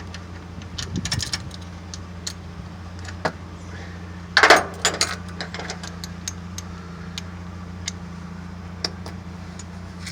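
Metal hand tools clinking and rattling against engine parts while the thermostat housing bolts are worked loose, with a louder clatter about halfway through, over a steady low hum.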